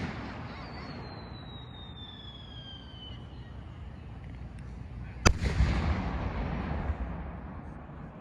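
Hand-built aerial firework shell: a whistle falling slowly in pitch for a couple of seconds, then a loud bang about five seconds in as the shell bursts, rumbling and echoing for about two seconds.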